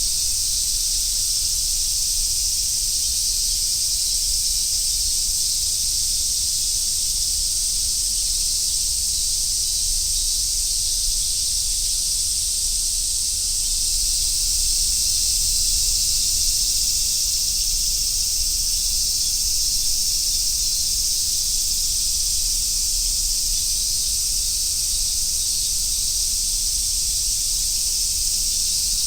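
A chorus of Japanese summer cicadas, such as large brown cicadas (aburazemi), singing as one continuous, high, hissing drone that holds steady throughout.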